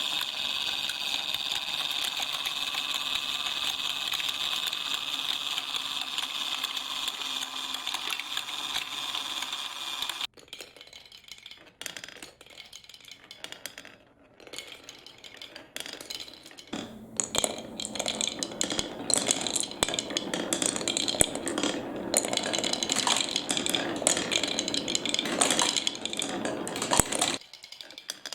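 A toy mini washing machine's small motor running steadily with balls tumbling inside, cutting off abruptly about ten seconds in. Then scattered clicks, and from about seventeen seconds a run of dense clattering as small balls roll along the marble-run track, stopping suddenly near the end.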